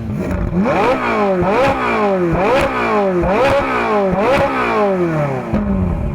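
Ferrari 458 Spider's 4.5-litre naturally aspirated V8 revved hard in neutral while standing still, about five quick blips in a row, each rising sharply then dying away. It peaks at 108 decibels.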